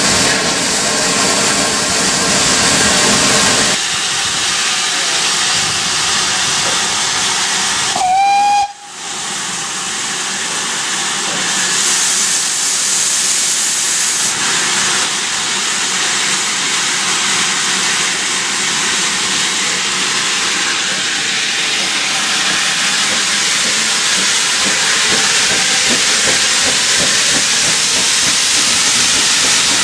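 Narrow-gauge steam locomotive with a steady hiss of steam throughout, and one short whistle blast, rising slightly in pitch, about eight seconds in.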